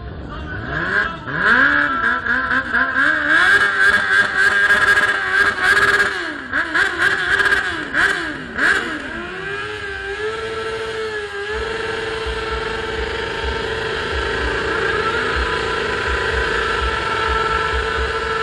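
Motorcycle engine revved hard, its pitch swinging up and down again and again with sharp cracks, then held at a steady high speed for the second half.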